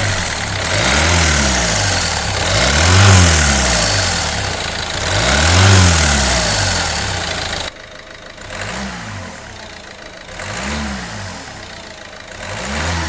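Peugeot 308's 1.6 HDi four-cylinder diesel engine being revved in short blips from idle, each rev rising and falling in pitch, about seven in all. Partway through the sound cuts suddenly to a quieter take of the same blips.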